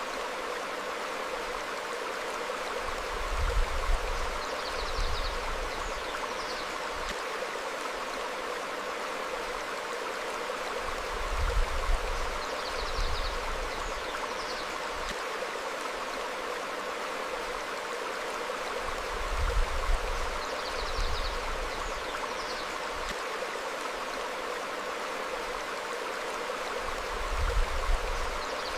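Forest stream flowing steadily over rocks, with short high bird chirps in pairs. A low rumbling swell rises and falls about every eight seconds and is the loudest part; the chirps and swells repeat on the same cycle.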